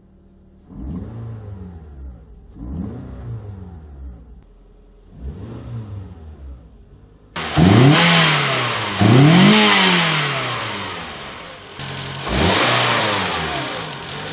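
Toyota Camry four-cylinder engine fitted with an aftermarket cold air intake in a 3D-printed filter box, being revved in repeated throttle blips, each rising and falling in pitch. The first three revs are quieter and muffled, heard from inside the car. About seven seconds in the revs become suddenly louder and fuller, heard under the open hood. The last rev, near the end, is with the stock filter box for comparison.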